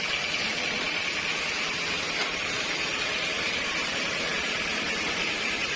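Sawmill machinery running steadily, a constant even noise with a hiss-like band in the upper mid range.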